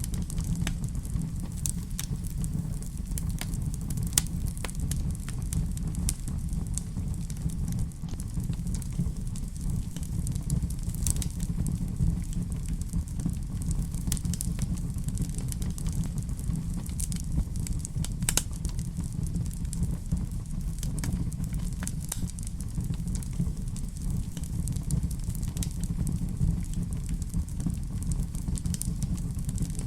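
Wood fire crackling in a fireplace: a steady low rumble of flames with scattered sharp pops and snaps throughout.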